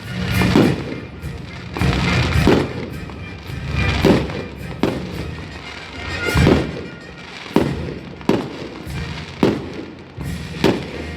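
Fireworks going off in a string of sharp bangs, about one every second or so, over band music playing.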